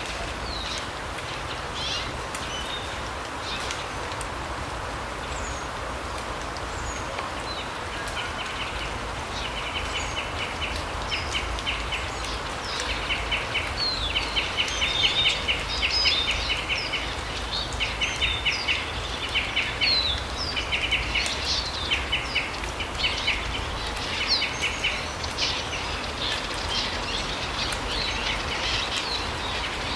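Forest birds calling: scattered short, high chirps throughout, and from about eight seconds in, a long series of rapid, buzzy trills repeated every second or so, over a steady background hiss.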